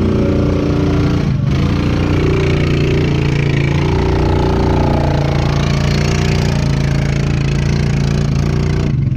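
Can-Am 1000's V-twin engine running at steady, nearly constant revs.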